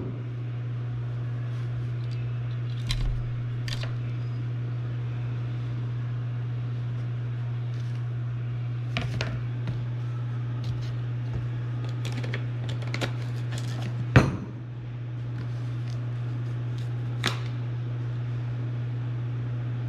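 A steady low hum runs throughout, under scattered clicks and clanks from hands working on a golf cart engine. The loudest of these is a sharp knock about fourteen seconds in.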